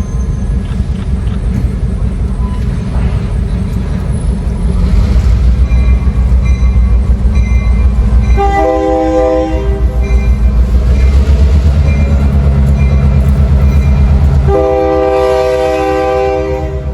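Diesel locomotive passing close, its engine running heavily throughout, sounding its multi-note air horn twice: a blast of about a second and a half near the middle and a longer one of over two seconds near the end.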